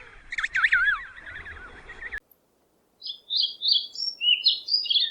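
Wavering, quavering bleats that cut off abruptly about two seconds in. After a brief silence, a bird starts a run of quick, high chirps.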